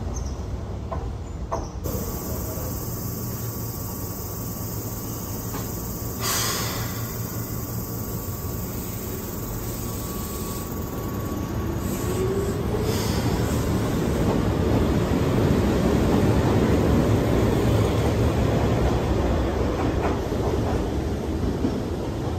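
Keihan 600-series train pulling out of the platform. A steady hum while it stands, and a brief hiss about six seconds in. Then the motor whine rises and the wheels run louder on the rails as it moves off.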